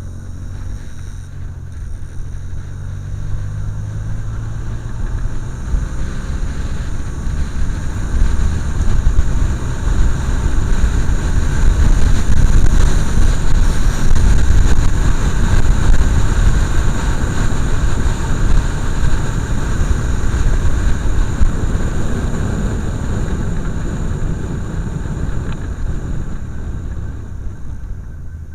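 Motorcycle running during a ride, its engine note rising about a second in. A heavy low rumble of noise then builds to a peak around the middle and eases off toward the end.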